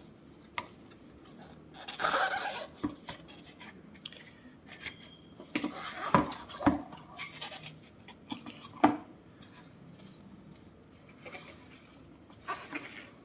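A package being opened by hand: a burst of rustling about two seconds in, then scattered knocks, taps and light scraping as the contents are handled, with the sharpest knocks around six and nine seconds.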